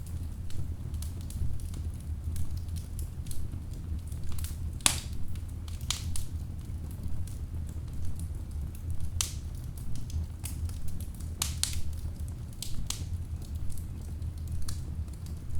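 Wood logs burning in a fireplace, crackling with irregular sharp pops over a steady low rumble of the flames.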